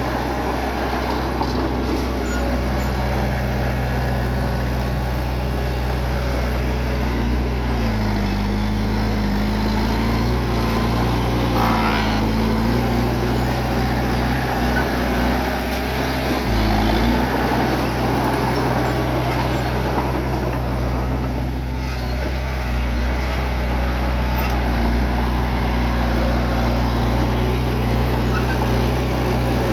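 Bulldozer's diesel engine running under load, with a steady low drone. Its pitch dips and recovers a few times in the middle.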